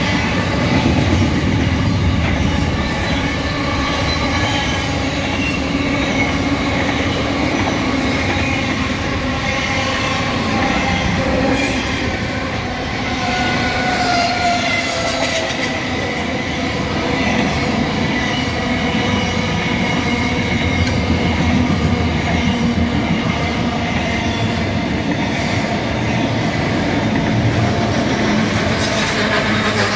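Container wagons of a long freight train rolling past: steel wheels rumbling steadily on the rails and squealing, with several high ringing tones held over the rumble and one wavering in pitch about halfway through.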